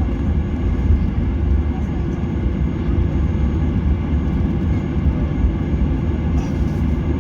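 Airliner cabin noise in flight: a steady, loud low rumble from the engines and the air rushing past the fuselage.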